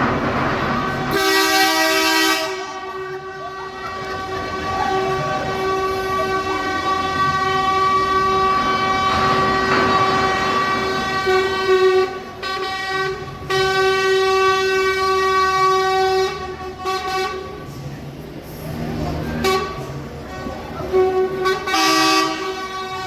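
Truck air horns sounding in long held blasts, several overlapping at once in a chord, with short breaks between blasts.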